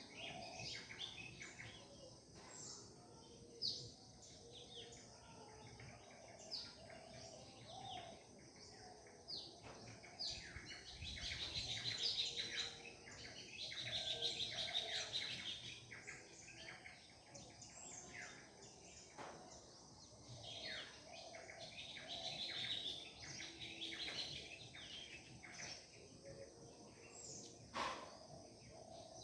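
A morning chorus of several birds singing together: many short, quick chirps and whistled notes overlapping, busiest around the middle.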